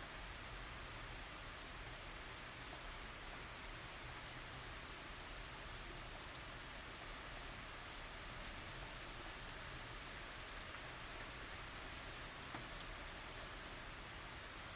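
Steady tropical rain falling, an even hiss with scattered drops pattering on surfaces.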